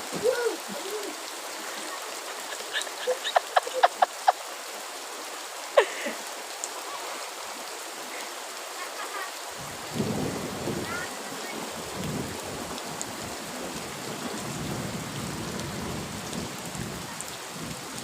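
Heavy rain falling steadily. A quick run of sharp ticks comes a few seconds in, and a low, uneven rumble sets in about halfway through and carries on.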